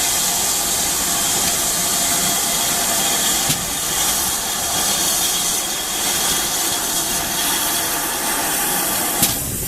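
Steam locomotive hissing steadily as it blows off steam. There is a sharp click about three and a half seconds in and another near the end.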